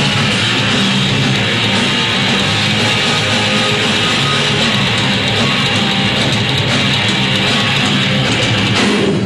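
Heavy metal band playing live: a dense, loud wall of distorted guitars and drums that cuts off sharply near the end as the song finishes.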